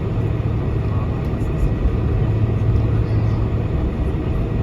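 Steady cabin noise inside a Boeing 747-400 during taxi, with the engines' constant low hum under an even rumble.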